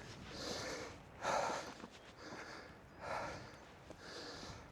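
A climber breathing hard on a via ferrata, with three puffed breaths about a second or two apart.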